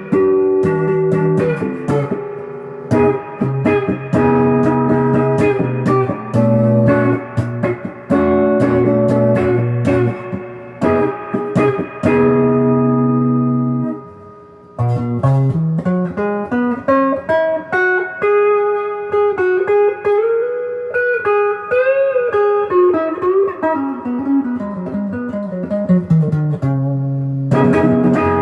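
Donner DLP124 electric guitar on its stock humbucker pickups. It strums held chords for about fourteen seconds, pauses briefly, then plays a single-note lead with string bends and a run down the neck, and ends on a chord. To the owner the stock pickups sound a little bit mushy.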